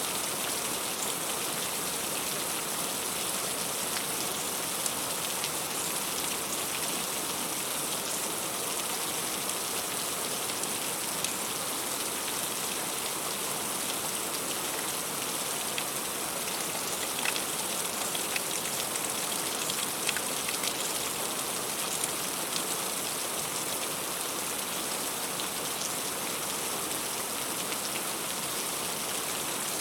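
Heavy rain falling steadily, with scattered individual drops striking close by.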